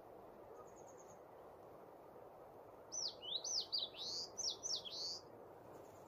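A songbird singing one quick phrase of about eight high whistled notes that sweep down and up, lasting about two seconds and starting about three seconds in, with a faint brief high trill near the start.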